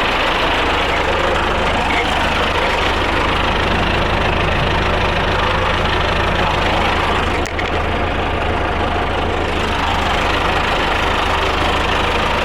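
Tractor engine running steadily at an even speed, with a brief dip about seven and a half seconds in.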